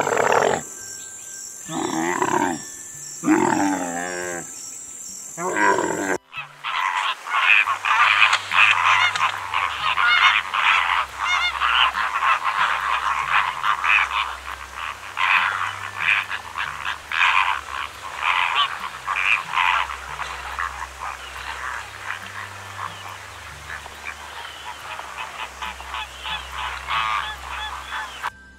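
A dromedary camel calling several times over the first six seconds. It then gives way abruptly to a flamingo flock honking and calling almost without pause, many short overlapping calls.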